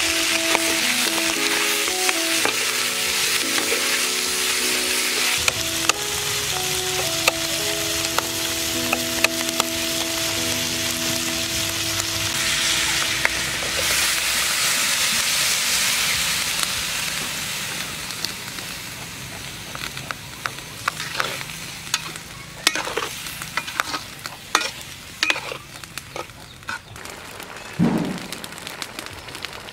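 Eel pieces sizzling hard as they fry in a steel wok, with stirring. About halfway through, coconut water goes in and the sizzle dies down to a quieter simmer with scattered pops and crackles.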